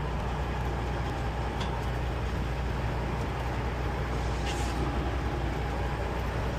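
Peterbilt 389 semi truck's diesel engine running with a steady low drone as the truck drives.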